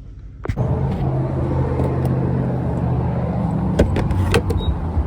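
Car engine running with a steady low hum, starting suddenly about half a second in, with a few sharp clicks near the end.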